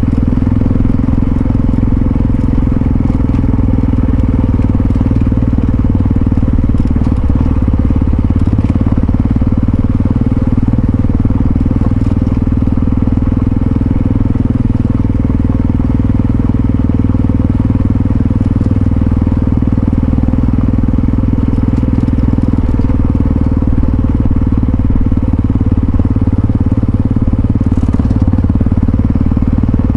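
Yamaha XT660Z Ténéré's single-cylinder engine running steadily at a constant speed, with no change in pitch.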